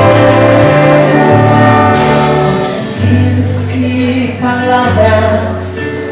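Church orchestra with brass playing an instrumental passage of a gospel song, with sustained chords over a bass line that moves in steps, easing a little in the second half.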